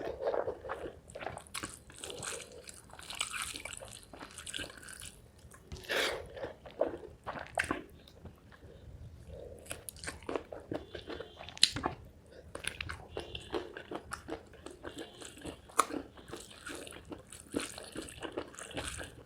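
Close-miked eating of chicken liver, gizzard and feet curry with rice: wet chewing, biting and crunching in irregular smacks and clicks, with one sharp, loud crack just past the middle.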